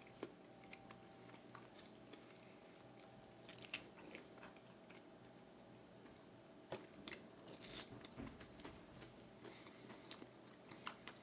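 A person chewing fried tater tots and breaded chicken balls, close to the microphone: a quiet background broken by a few bursts of soft crunches and wet mouth clicks.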